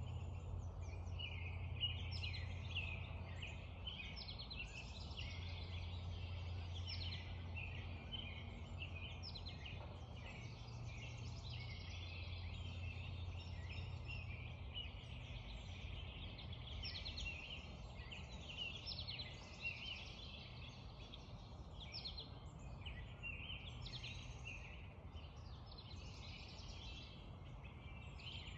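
Dawn chorus of many birds chirping and singing in quick overlapping calls, over a steady low hum.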